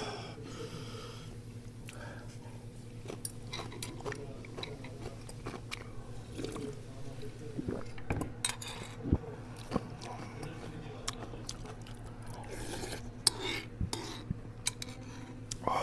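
Cutlery clinking and tapping against bowls and dishes during a meal, in many short scattered clicks, over a steady low hum.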